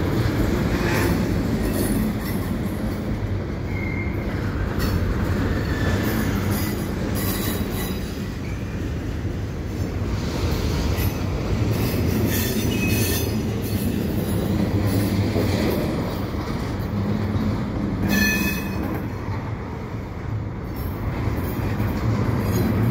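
Double-stack container well cars rolling slowly through the yard tracks with a steady rumble, broken by short, high wheel squeals and a few clanks as the cars are shoved into the holding tracks.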